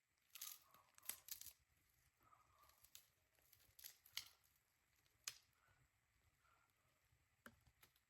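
Faint, irregular snaps and crackles with short tearing, crumpling noises, about a dozen in all, the sharpest near the start and around four to five seconds in.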